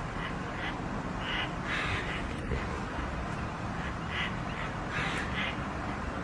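Birds giving short, repeated calls, about a dozen at irregular spacing, over a steady low background rumble.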